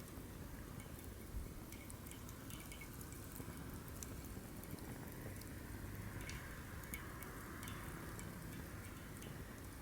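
Firewood burning in a fire pit: scattered sharp crackles and pops over a steady low flame hiss, which grows a little stronger about halfway through.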